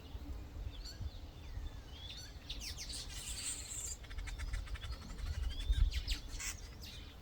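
Several small birds chirping and calling in the background: short rising whistles and chirps, with a rapid clicking trill about halfway through.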